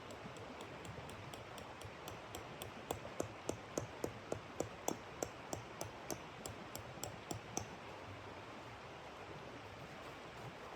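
A run of about fifteen sharp, evenly spaced clicks, about three a second, over a steady hiss of background noise; the clicks start about three seconds in and stop near the middle.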